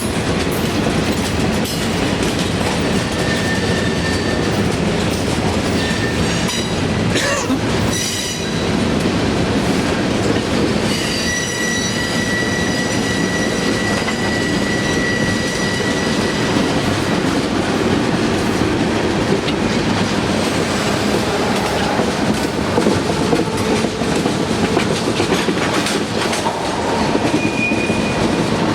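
Freight train cars rolling past, steel wheels clattering over the rail joints. Short high wheel squeals come in, the longest lasting several seconds around the middle.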